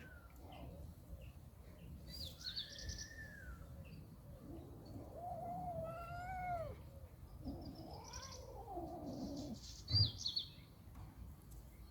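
Cat yowling in a confrontation: long, drawn-out wavering cries twice in the middle, with a shorter cry early on. Birds chirp high and short in the background, and there is a brief thump near the end.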